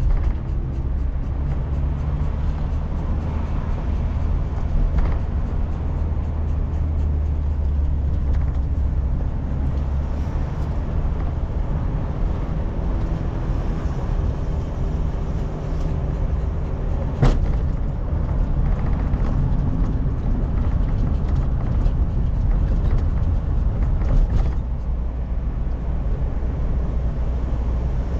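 Steady low engine and road rumble of a car driving, heard inside the cabin, with a single sharp click about seventeen seconds in.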